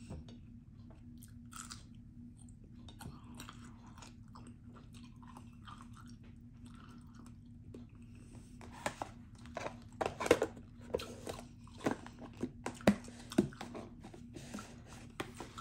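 A person chewing and biting food close to the microphone, with soft mouth clicks at first and louder crunches in the second half. A faint steady hum runs underneath.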